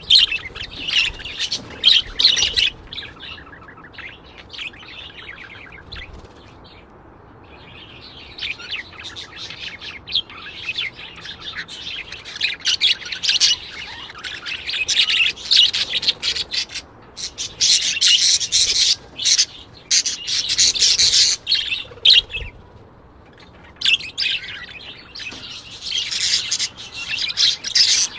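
Birds chirping and twittering in rapid, high-pitched bouts, with a lull about a quarter of the way through and a shorter one near the end.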